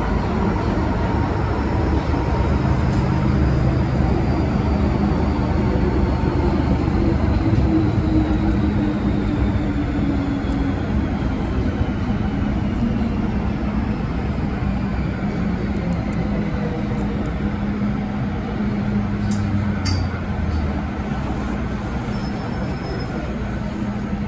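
Interior running noise of an MTR Kwun Tong Line M-train: a steady rumble of wheels on track with a motor whine that slowly falls in pitch as the train slows, and a couple of sharp clicks near the end.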